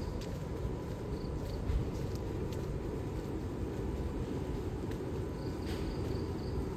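Night city street ambience: a steady low rumble of distant traffic with a few faint ticks, and a brief thin high-pitched tone near the end.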